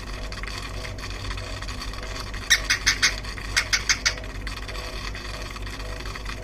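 Cockatiel giving two quick runs of about four short, harsh chirps each, starting about two and a half seconds in, over a low steady hum.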